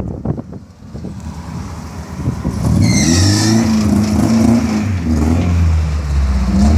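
A motor vehicle's engine running, coming in loud about two and a half seconds in and holding a steady low pitch, with a short high squeal about three seconds in.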